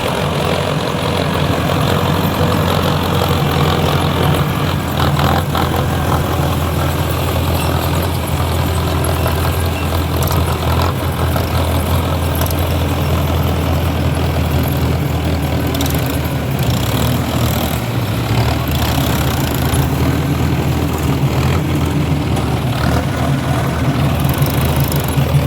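Mahindra tractor's diesel engine running steadily at an even speed.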